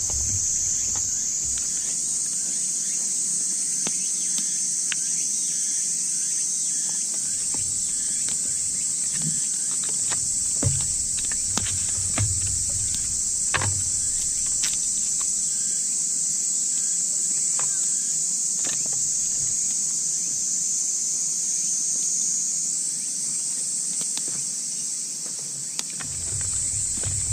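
A dense chorus of night insects, a steady high-pitched trill, with a few sharp crackles and pops from a campfire scattered through the middle.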